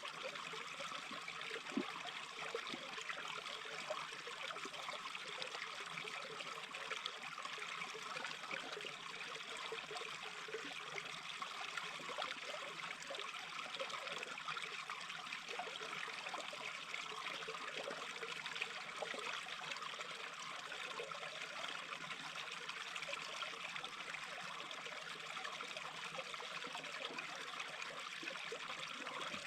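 Small brook babbling and trickling steadily over stones.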